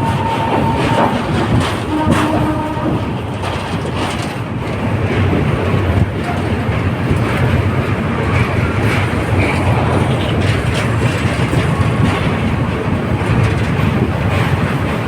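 Passenger train running along the track, wheels clattering over the rails with a steady low rumble.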